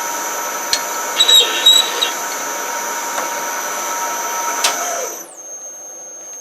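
Metal lathe running under a cut, a steady machine sound with a high whine and short high squeals from the cutting about a second in. About five seconds in the machine is switched off: the whine slides down in pitch and the sound dies away.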